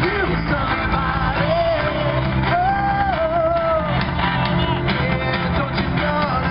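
Live rock band playing through a PA, with a singer holding long, wavering sung notes over the steady backing.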